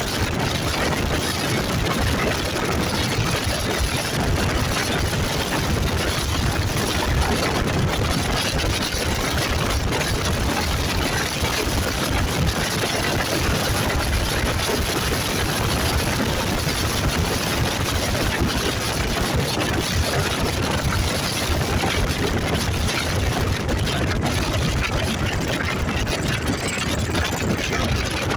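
Motorcycle running steadily under way, with a constant rushing noise over a low rumble.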